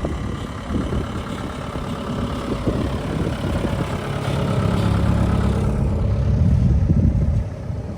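A motor vehicle's engine idling close by, growing louder about halfway through and falling away just before the end.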